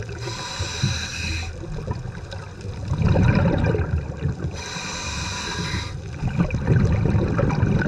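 Scuba diver breathing through a regulator underwater: two hissing inhalations about four seconds apart, each followed by the low bubbling rumble of exhaled air.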